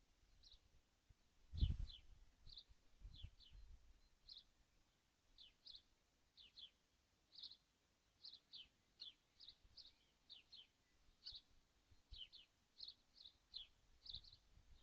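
Faint bird chirping: short, high, falling chirps repeated about twice a second, with one low thump about one and a half seconds in.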